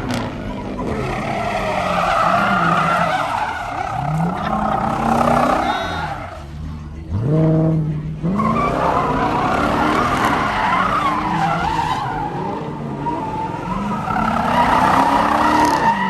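A car's tyres squealing under hard wheelspin while its engine revs up and down. About six seconds in the squeal drops away briefly and one engine rev climbs and holds, then the squeal starts again.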